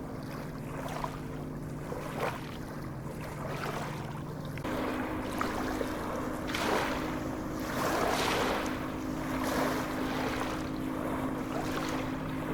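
Sea waves washing, swelling in repeated surges every second or two. Under them runs a steady low hum that steps up in pitch about five seconds in.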